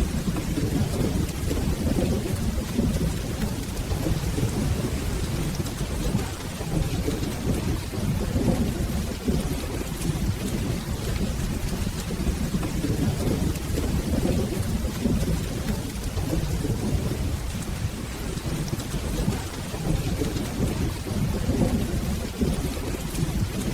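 Steady rain with low rolling thunder rumbling continuously underneath.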